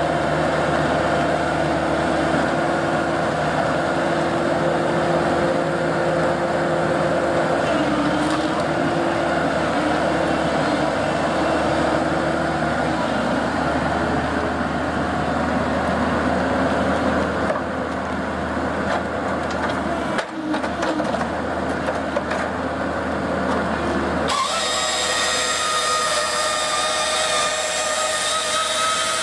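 Excavator with a firewood processor head working logs: the engine and hydraulics run steadily with a held hum. About 24 seconds in, the sound switches abruptly to a higher-pitched machine whine.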